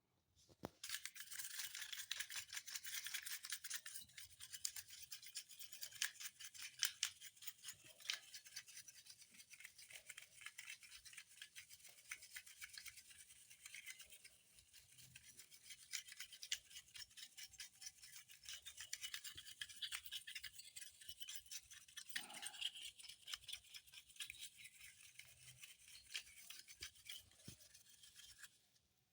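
Brush scrubbing a hard surface: a continuous scratchy rasp that starts about a second in and stops shortly before the end, with a brief lower sound about two-thirds of the way through.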